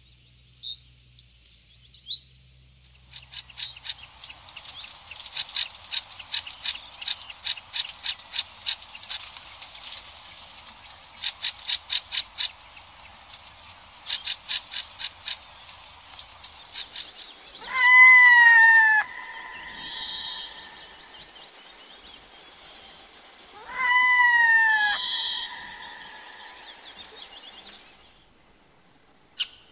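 Wild birds calling: a long run of sharp, rapid notes repeated about three times a second, then two loud drawn-out calls that slide down in pitch.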